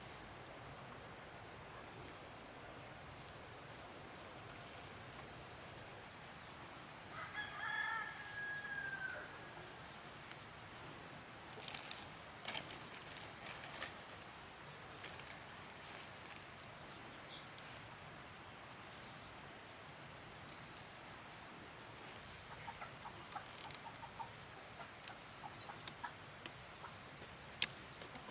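A rooster crows once, about seven seconds in: a single drawn-out call of about two seconds that rises and then falls. A steady high hiss runs underneath, and a few short clicks and scuffs follow later.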